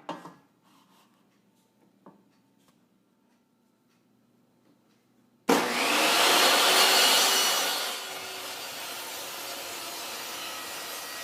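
A circular-blade power saw starts suddenly about five seconds in and cuts a 45-degree bevel through 3/4-inch plywood. It is loudest for about two and a half seconds, then runs on steadier and quieter. Before it starts there is near silence with a few faint clicks.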